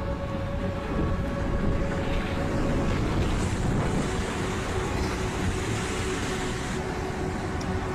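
Tsunami floodwater rushing and churning, a dense, steady wash of water noise with wind buffeting the microphone. A faint steady tone runs underneath and moves lower about three to four seconds in.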